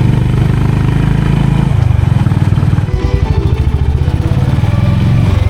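Motorcycle engine running while riding, with a strong, even low pulse. The engine note shifts about two seconds in and dips briefly about three seconds in.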